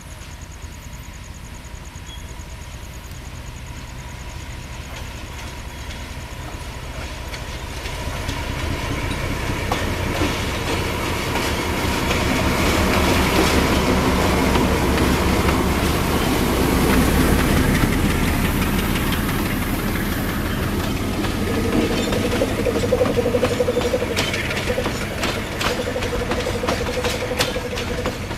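GE U20C diesel-electric freight train passing: the lead locomotive's engine grows louder as it approaches and is loudest about halfway, with the trailing locomotive shut down. Empty cement hopper wagons then roll by, their wheels clacking over the rail joints.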